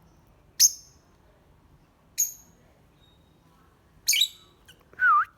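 Pet bird calling: three short, sharp chirps spaced a second or two apart, then a brief wavering whistle near the end.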